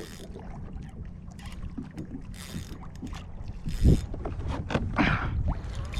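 Kayak being manoeuvred on the water: small splashes and knocks against the hull over a low wind-like rumble, with one louder knock about four seconds in.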